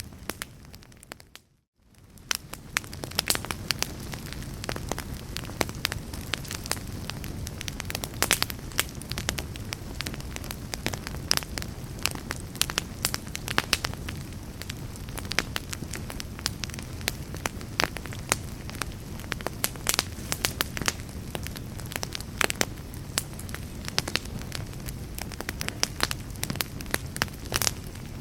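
Log fire in a fireplace crackling and popping: a steady low rush of flame dotted with many sharp snaps. A second or so in, the sound dips briefly to near silence, then fades back up.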